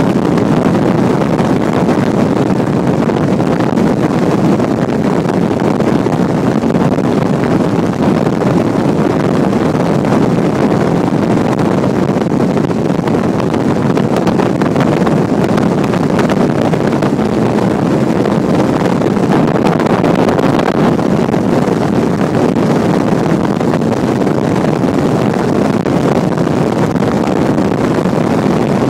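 Motorboat running steadily under way: an even rush of engine and water noise with wind buffeting the microphone.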